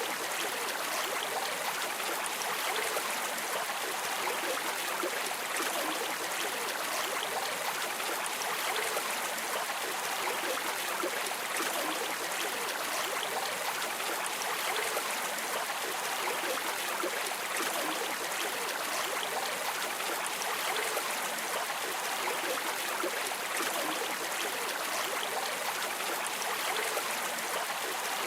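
Flowing stream water, a steady rushing and babbling with no breaks.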